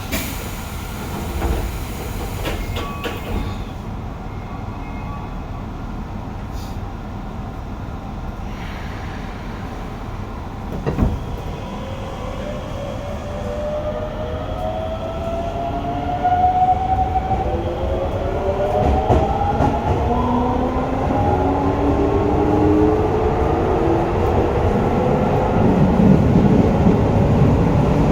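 Hokuso 7300-series commuter train with a GTO-VVVF traction inverter pulling away and accelerating. From about halfway, several inverter tones whine and climb in pitch, shifting in steps, as the rolling noise grows louder. Before that there is a steady low running rumble with a few knocks.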